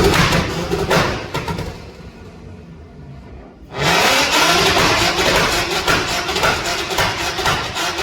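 A modified car engine revved hard at full throttle: the revs fall away to a lower idle after the first second, then it is revved sharply again just before halfway and held at high revs, very loud, to the end.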